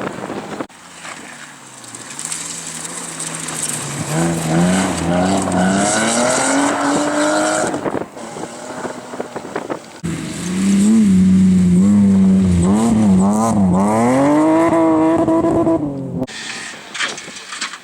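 Rally car engine at full throttle, its pitch climbing through the gears with a short lull about 8 seconds in. The engine then runs louder again with the revs rising and dipping through shifts, and stops abruptly near the end.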